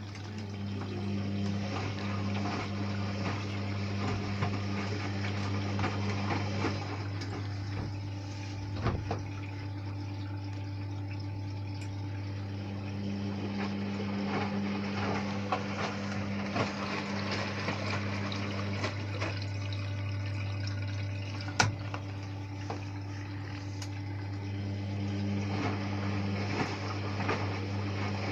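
Hotpoint Ariston washing machine running a wash cycle, with water sloshing in the drum over a steady low hum. A second, higher hum comes and goes in stretches of about six seconds, and there is an occasional sharp click.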